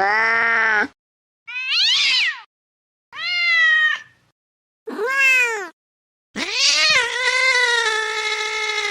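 Domestic cats meowing, four short separate meows with brief silences between, some sliding up and then down in pitch. About six seconds in comes a long drawn-out yowl of a very angry cat, held steady for about three seconds.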